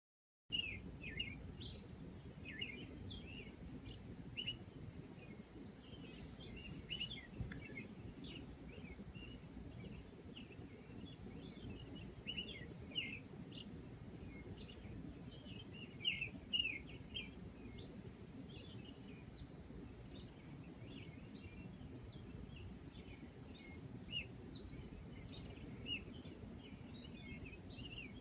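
Many small birds chirping and twittering over a faint, steady low background noise, starting suddenly about half a second in.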